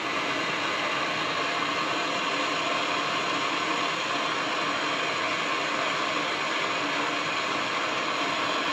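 Handheld gas soldering torch burning steadily with an even hiss, heating a copper water-line fitting to sweat solder into the joint.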